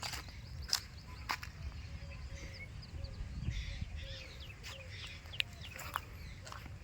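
Birds chirping with many short, quick calls, over a low rumble, with a few sharp clicks scattered through.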